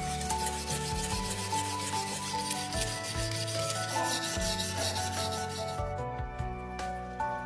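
Abrasive rubbing in quick, even strokes, like hand sanding or polishing a surface, that thins out about six seconds in, over background music.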